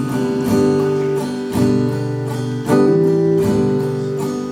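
Song accompaniment without vocals: acoustic guitar strumming sustained chords, a new chord struck about once a second.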